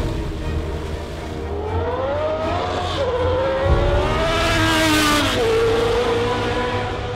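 Race car engine accelerating, its pitch climbing and then dropping sharply at gear changes about three seconds and five and a half seconds in.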